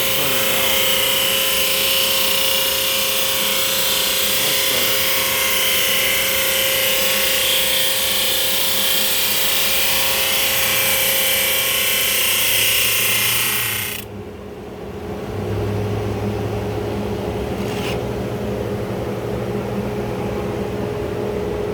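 Laguna Supermax 19-38 drum sander running, its abrasive drum sanding the weathered face off a cedar board as it feeds through with a steady, hissing grind. About 14 seconds in the hiss stops abruptly, and a lower, steady machine hum carries on.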